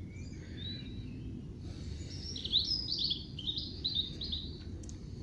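A songbird singing: a fast run of short, repeated chirps from about two seconds in, lasting a couple of seconds, with fainter calls before it, over a low outdoor rumble.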